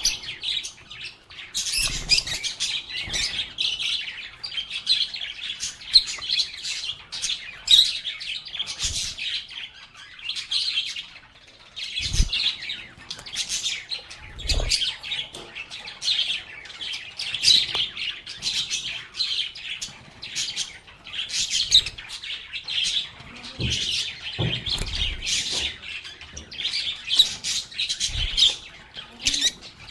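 Several lovebirds chirping and chattering over one another, a dense run of high chirps with no break. A few soft low thumps come through now and then.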